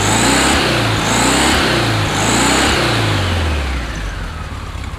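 1969 VW Beetle's air-cooled flat-four engine blipped by hand at the throttle linkage in about three quick revs, roughly once a second, then dropping back to a steady idle a little under four seconds in. Running smoothly on newly fitted correct spark plugs: the bad running is cured.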